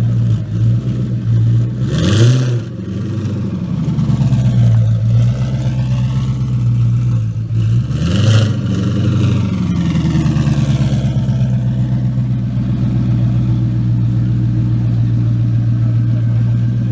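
Single-turbo Gen 2 Coyote 5.0 L V8 of a 2017 Mustang GT idling steadily. The throttle is blipped twice, about two and eight seconds in. Each rev opens with a short rushing burst and rises and falls in pitch over about two seconds before the engine settles back to idle.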